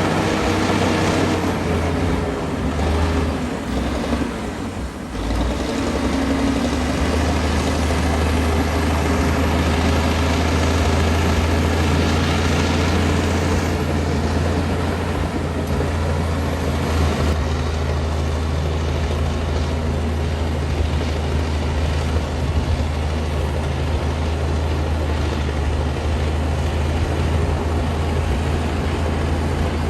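Komatsu D60P bulldozer's diesel engine running steadily under load while the dozer works, with a brief drop in engine sound about four to five seconds in before it settles back to a steady drone.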